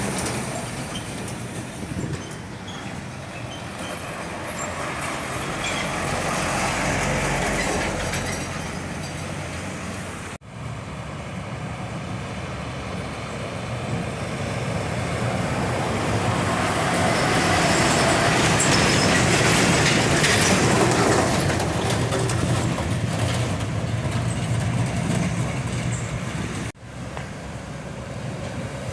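Large vehicles running and passing: a steady low engine hum under a rumbling road or rail noise that swells and fades twice. The sound cuts off abruptly and restarts about ten seconds in and again near the end.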